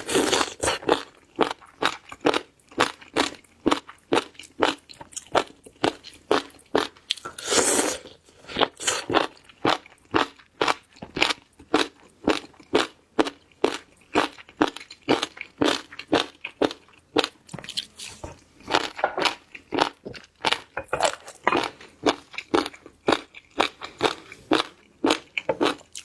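Close-miked chewing of a crisp, crunchy food: a steady run of sharp crunches, about two or three a second, with one louder bite about eight seconds in.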